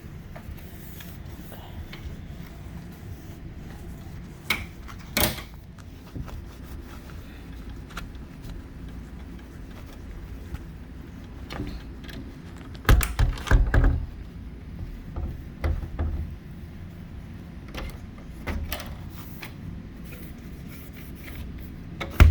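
Scattered knocks and clunks of an RV door being handled and worked, with a cluster of heavy thumps about 13 seconds in, over a steady low hum.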